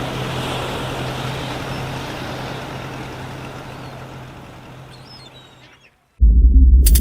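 Boat engine running with a steady low hum under a wash of wind and water noise, fading out to silence over about six seconds. Near the end a loud, very deep sound cuts in abruptly.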